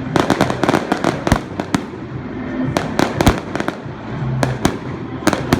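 Fireworks going off in rapid volleys of sharp bangs and crackles, densest in the first couple of seconds, easing off, then picking up again in shorter bursts.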